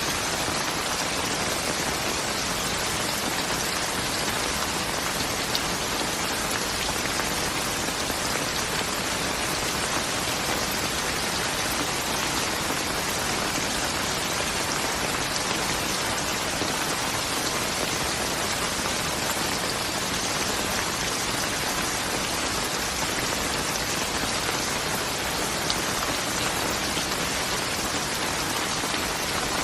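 Steady rain falling, a constant dense hiss of drops with a few sharper single drop ticks.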